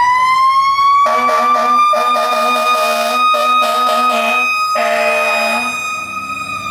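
Fire engine's mechanical siren holding a high, steady wail, then starting to wind down in pitch near the end. From about a second in, air horn blasts sound over it in several bursts, the last one ending just before the siren begins to fall.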